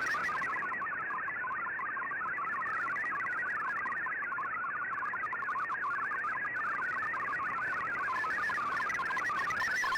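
MFSK digital text signal from a shortwave broadcast, heard through a communications receiver. It is a steady, rapid warble of short tones hopping about between roughly 1 and 2 kHz, over the receiver's band-limited hiss.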